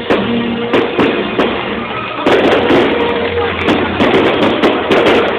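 Fireworks going off in quick succession, a rapid series of sharp bangs and crackles, over music with a few held notes.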